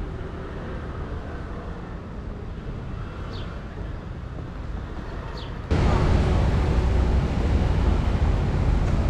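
City street ambience: a steady low rumble of traffic, with a couple of faint high chirps. About two-thirds through, the sound jumps abruptly to a louder, closer traffic rumble.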